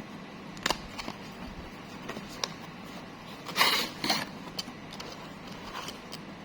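Handling noise during an unboxing: scattered light clicks and taps, with a short crinkling rustle about halfway through, typical of plastic packaging and a keyring's metal parts being handled.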